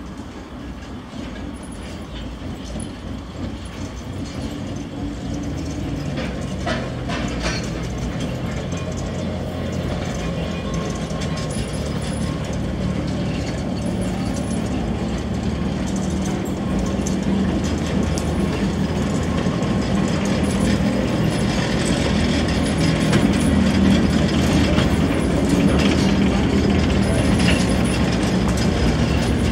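Small narrow-gauge locomotive hauling a short train of coaches, approaching slowly and passing close by, growing steadily louder. A steady low motor hum runs under scattered clicks and clatter from the wheels on the track.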